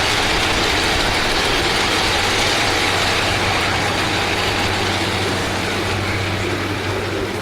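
Miniature railway train running along its track: a steady mechanical rattle and clatter over a low hum, getting a little quieter near the end.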